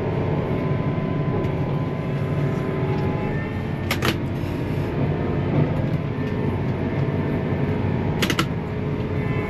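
Large John Deere tractor diesel engine running steadily under load while pulling a stuck tractor out of deep mud. Two brief sharp clicks, about four seconds in and near the end.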